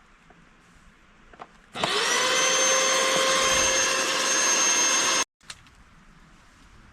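A small electric motor spins up, rising briefly in pitch, runs steadily with a whirring whine for about three and a half seconds, then cuts off abruptly.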